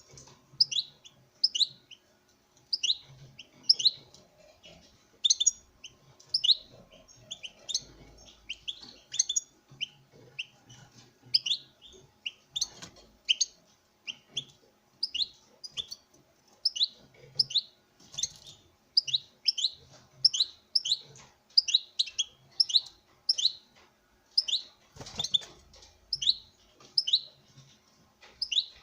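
European goldfinch chirping: a long run of short, high, falling notes, about one to two a second, in bursts with brief pauses.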